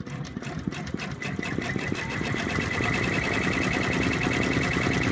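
Embroidery machine stitching out a blanket stitch, the needle beating rapidly and evenly. It starts up and gets louder over the first couple of seconds, then runs steadily with a high whine.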